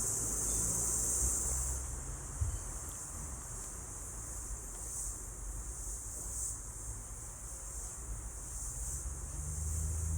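Steady, high-pitched insect chorus that swells and fades slightly, over a low rumble, with one short knock about two and a half seconds in.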